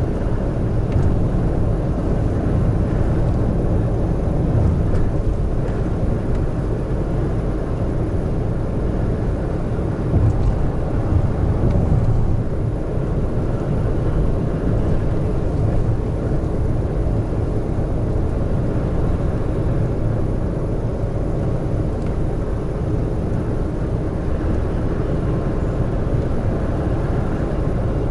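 Large truck driving on an expressway: steady engine and road noise, heaviest in the low end, swelling a little for a couple of seconds about ten seconds in.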